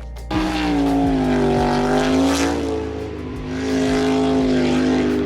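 An engine running hard at high revs, its pitch sagging and rising slowly in two long pulls.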